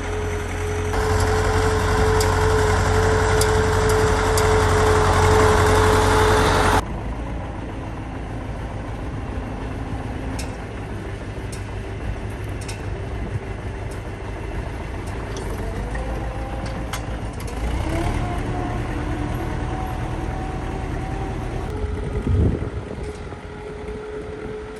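Old tractor's engine running steadily. The sound drops abruptly about a third of the way in, a tone rises in pitch around the middle, and the steady running returns near the end.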